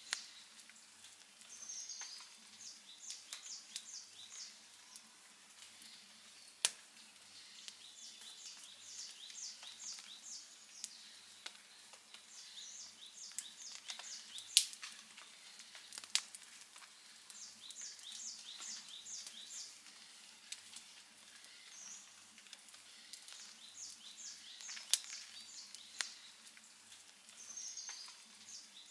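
Outdoor wood fire crackling, with sharp pops now and then, the loudest about halfway in. Behind it, a high chirping call repeats in quick series every few seconds.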